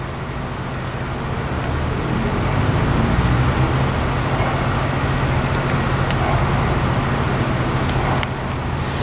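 A motor vehicle engine running with a steady low hum, the noise around it growing louder from about two seconds in.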